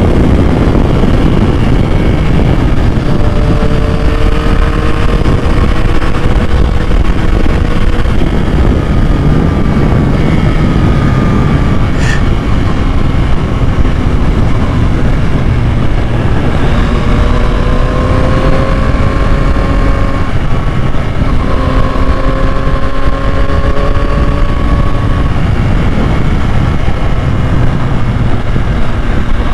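2021 Yamaha MT-09's inline three-cylinder engine on the move, pulling steadily up in pitch as it accelerates through the gears several times, over a constant heavy rush of wind noise.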